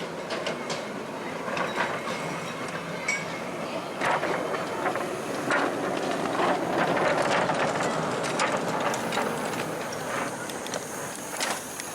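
A miniature railway train running past, with irregular clicks and clatter from its wheels on the track, loudest around the middle.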